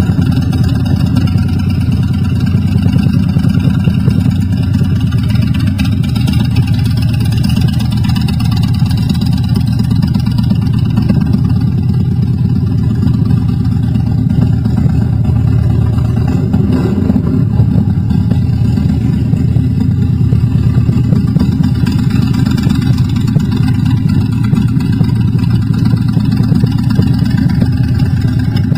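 Motorcycle engine running steadily through its exhaust, holding a fairly even speed with small rises and falls.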